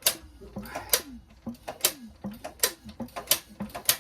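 JAP 5 single-cylinder engine turned over by hand with its starting handle for a spark test, giving a run of sharp clicks about two a second with short lower sounds between them.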